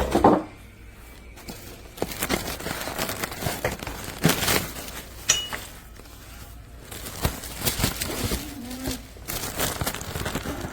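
Packaging rustling and crinkling with scattered light knocks and clicks, as an appliance is lifted out of its formed shipping box.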